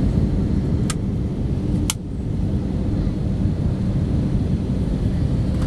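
Airbus A318 cabin noise on approach: a steady low rumble of engines and airflow. Two sharp clicks come about one and two seconds in.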